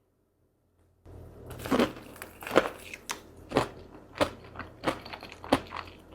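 Close-miked eating: crunchy chewing and biting in a quick, regular run of crisp crunches, starting about a second in.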